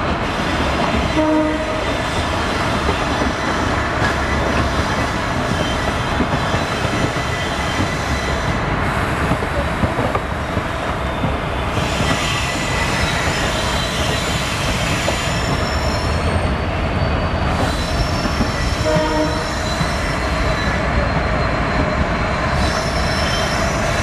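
Passenger train running at speed, heard from an open coach doorway: a steady rumble of wheels on rail, with a short horn note about a second in and again about five seconds before the end, and a faint high wheel squeal partway through.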